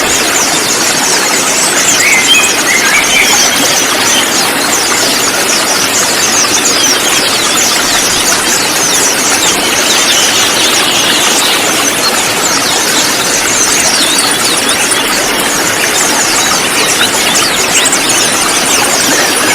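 A flock of konin birds chirping and twittering at once: many short high-pitched calls and trills overlapping continuously, over a steady hiss.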